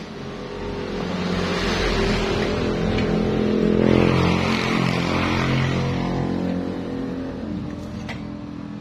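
Yamaha Vixion's single-cylinder four-stroke engine revved up and back down, running the rear wheel to test it after its worn rear wheel bearings were replaced. The revs climb from about a second in, peak about four seconds in, then fall away.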